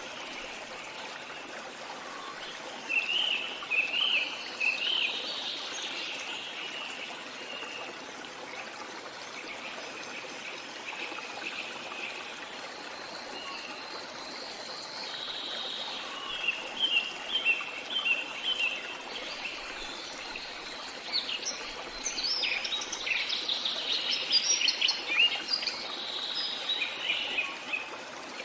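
Stream running steadily, with birds singing over it in several bursts of quick chirping phrases, the busiest near the end.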